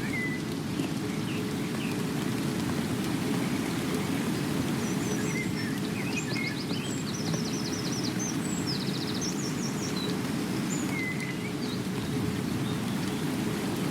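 Steady rain, with birds chirping and giving short rapid trills over it, most of them in the middle stretch.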